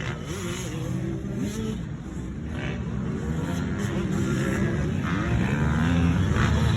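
Motocross dirt bike engine revving up and dropping back several times as it is ridden, growing louder toward the end.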